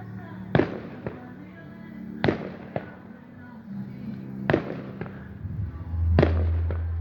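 Fireworks bursting overhead: four sharp bangs about two seconds apart, each trailing off in a fading echo, with smaller cracks after the first two. Music with held notes plays underneath.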